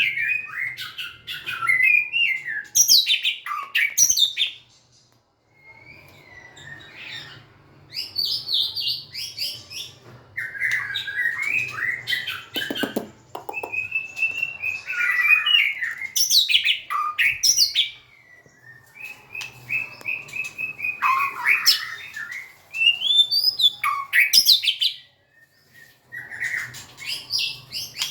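White-rumped shama singing: loud, varied whistled and chattering phrases delivered in bursts, with short pauses between them.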